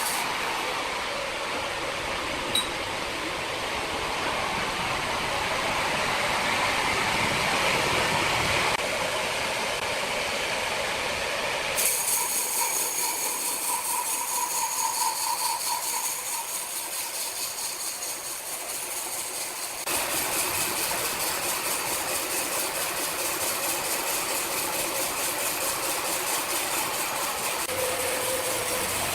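Sawmill machinery running: a steady mechanical noise with a hiss, which changes character abruptly several times.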